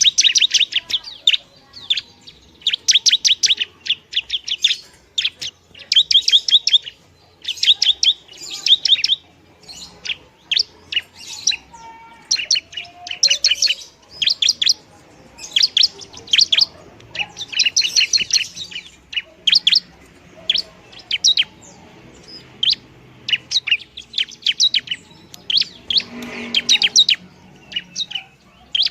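Long-tailed shrike (pentet) singing: short bursts of fast, sharp chattering notes, repeated again and again with brief gaps between them.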